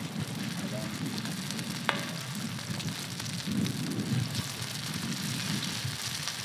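Chicken keema patties sizzling and crackling in hot oil in a wide iron pan as they are laid in one at a time, over a steady low rumble. One sharp click about two seconds in.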